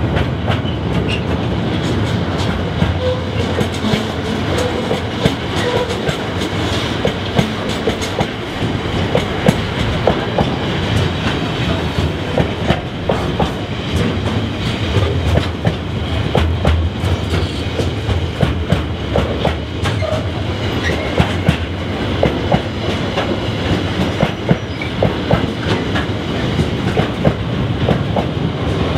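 Container wagons of a freight train rolling past: a steady rumble of wheels on rail, with many sharp clicks and clacks from the wheels over the track.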